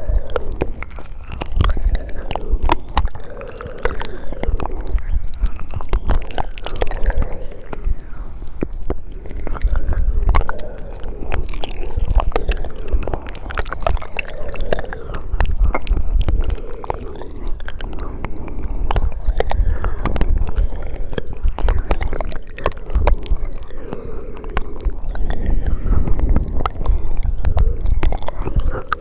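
Close-miked ASMR mouth sounds: a steady run of wet tongue clicks, lip smacks and mouth noises, many clicks a second.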